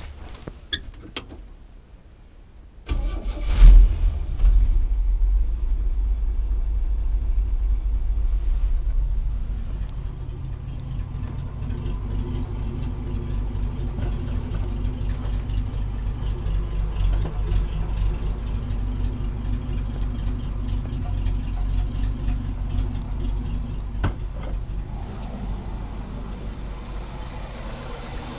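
1964 Chevy C10's 230 cubic-inch inline-six engine starting: a few light clicks, then it fires about three seconds in, flares up briefly and settles into a steady idle, running with the misfire the owner is filming.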